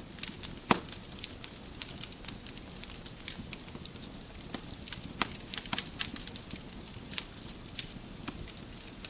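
Wood fire crackling in a fireplace: irregular sharp pops and snaps over a low steady hiss, with one louder pop near the start.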